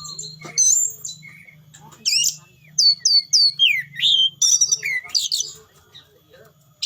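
Orange-headed thrush (anis merah) singing a rapid, varied song of whistled phrases, short repeated notes and falling and rising glides, with brief pauses between phrases, over a faint steady low hum.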